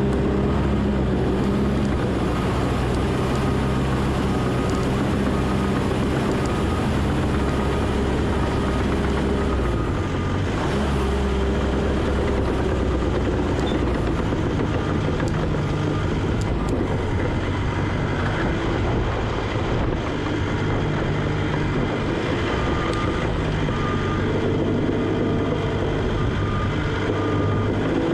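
Diesel engine of a piece of earthmoving equipment running steadily under work, its pitch rising and falling a little every few seconds as the load changes.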